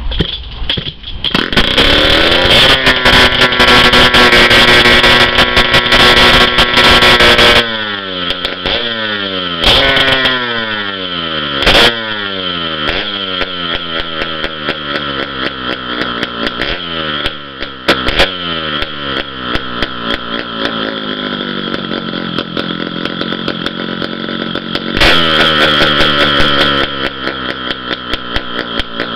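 Kawasaki KDX200's single-cylinder two-stroke engine running and being revved. It climbs to high revs in the first couple of seconds and is held there for about five seconds, then is dropped back and blipped over and over, the revs sinking after each blip. It is held higher again for a couple of seconds near the end.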